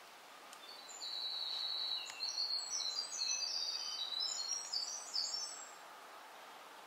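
A songbird sings one long song of high, thin notes. It opens with a held note and breaks into a quick jumble of short notes at different pitches, over a steady faint background hiss.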